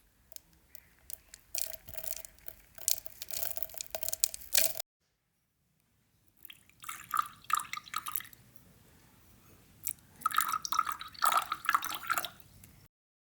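Water dripping and splashing in short runs, in two stretches with a sudden cut between them.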